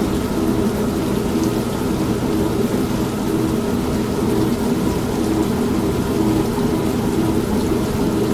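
An old manual washing machine running with a steady, pulsing motor hum, mixed with steady rain and low rumbling thunder. No single clap stands out.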